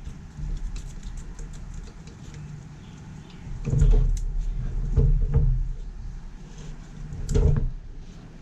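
Clatter and knocks of chainsaw parts being handled and fitted on a workbench, with a few heavier thumps about four, five and seven and a half seconds in and small clicks between them.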